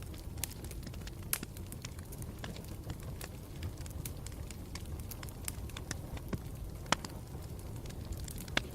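Campfire burning with a steady low rumble and irregular sharp crackles and pops, the loudest pop about seven seconds in.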